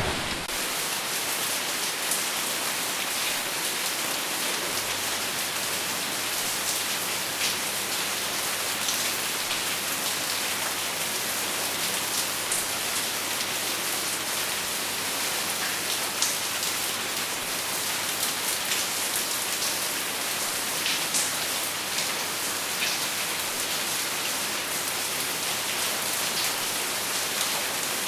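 Hailstorm on a roof: a steady, dense hiss of heavy rain with many short, sharp ticks of single strikes scattered through it.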